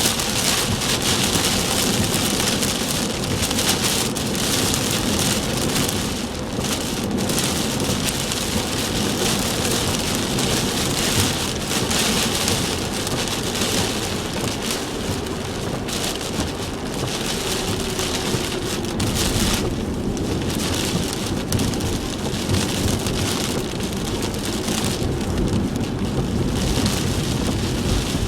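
Heavy typhoon rain pelting a moving car, a dense steady hiss and patter, with the car's road and engine noise underneath.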